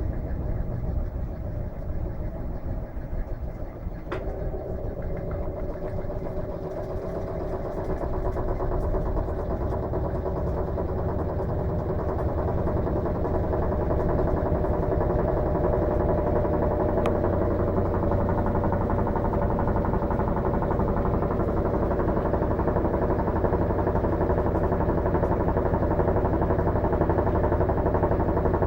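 Electrolux LM13Q top-load washing machine running: a click about four seconds in, then a steady motor hum that grows louder over about ten seconds and then holds.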